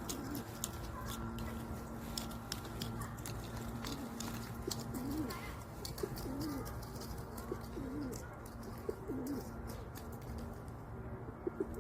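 Pigeons cooing: a series of short, low, rising-and-falling coos, with scattered light clicks and a steady low hum underneath.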